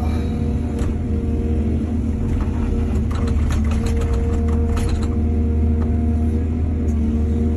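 Excavator's diesel engine running steadily under load, with a run of metallic clanks and knocks in the middle.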